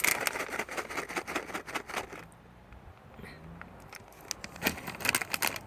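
A package of Temptations cat treats being handled: rapid crackling and rattling for about two seconds, a pause, then another short burst near the end.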